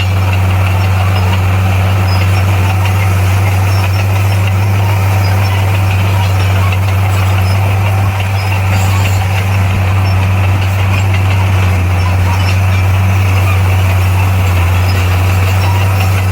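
Komatsu bulldozer's diesel engine running steadily at a constant pitch.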